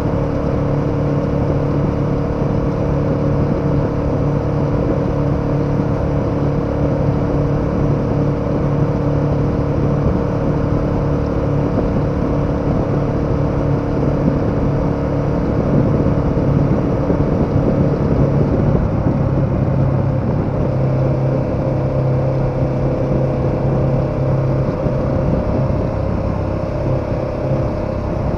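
KTM 1290 Super Adventure's V-twin engine running at steady cruising revs while riding, with wind and road noise. The engine note shifts slightly about 19 seconds in.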